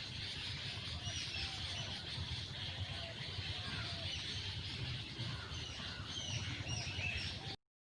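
Many birds chirping together, a dense chorus of short overlapping chirps and warbles over a steady low rumble; it cuts off suddenly near the end.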